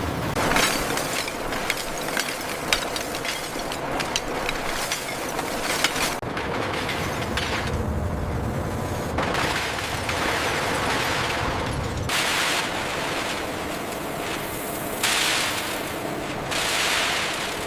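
Factory work noise: a run of sharp metallic knocks and clanks over the first six seconds, then several spells of loud hissing.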